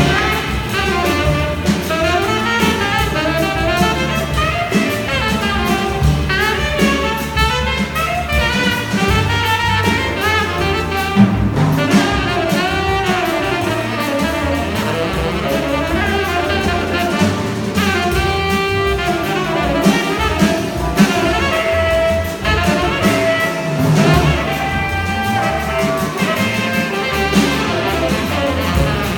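Live jazz combo playing, with a tenor saxophone carrying a fast, moving melodic line over bass and drums.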